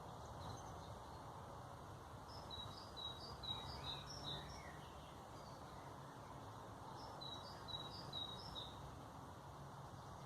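A small songbird singing two short phrases of quick repeated high notes, one a couple of seconds in and another near the end, over a steady low background hum.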